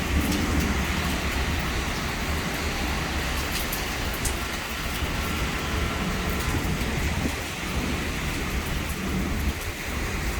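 Heavy thunderstorm rain pouring steadily, with many sharp drop impacts and a low rumble underneath.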